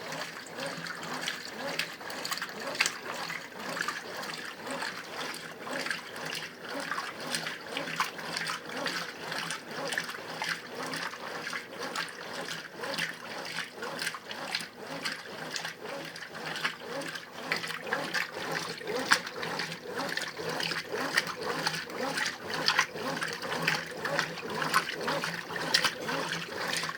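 Brastemp Ative 11 kg top-load washing machine agitating in its wash stage: water and laundry sloshing and splashing in the tub with many irregular splashes at an even level.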